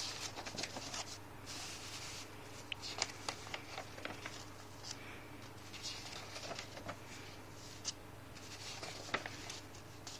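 Faint paper rustling and small clicks from handling and leafing through a printed instruction manual, over a low steady hum.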